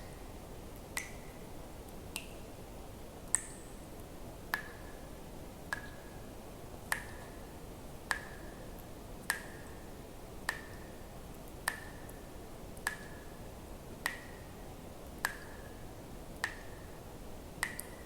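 Water drops falling one at a time at a steady pace, about one every second and a bit, each a sharp plink with a short ringing tone that dips slightly in pitch, over a faint steady hiss.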